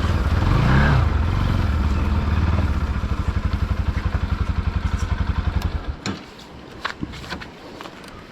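Motorcycle engine running, revved briefly about a second in, then idling with an even pulsing beat before cutting off abruptly about six seconds in. A few sharp clicks and knocks follow.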